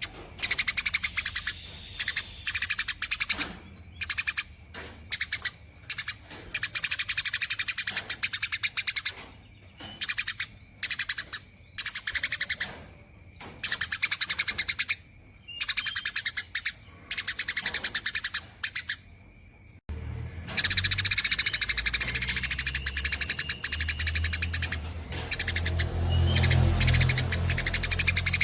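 Eurasian tree sparrow chattering in long, rapid, buzzy trills, the 'nyerecet' chatter, in bursts of one to two seconds with short pauses between. About two-thirds of the way through, the sound changes abruptly and the chatter runs on almost without a break over a low rumble.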